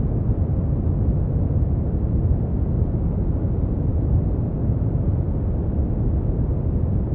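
Steady brown noise: a constant, deep rumbling hiss with most of its energy in the low end and little above a few thousand hertz.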